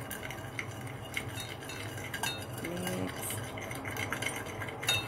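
A spoon stirring a sauce in a bowl to dissolve the sugar, clinking and scraping against the sides again and again.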